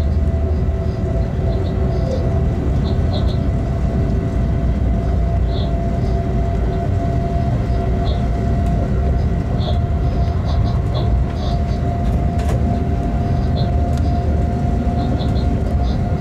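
Freight train running steadily: a constant low rumble under a steady hum, with short high chirps now and then.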